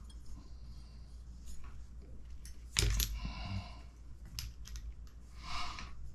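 Small metal and plastic parts clicking and clattering on a workbench as an RC truck transmission is put together by hand, with one louder clatter about three seconds in.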